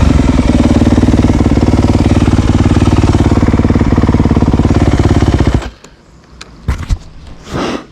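Dirt bike engine running loud at a steady pitch with a fast, even pulse, then stopping abruptly about five and a half seconds in. A couple of knocks and a short swish follow.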